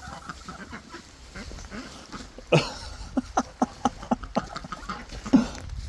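Goose honking: one loud call about two and a half seconds in, then a quick run of short honks and another loud call near the end.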